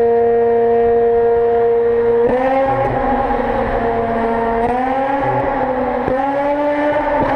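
Mazda rotary engine held at high revs with a steady, siren-like note. About two seconds in it cuts to another rotary engine revving, its pitch rising and falling several times.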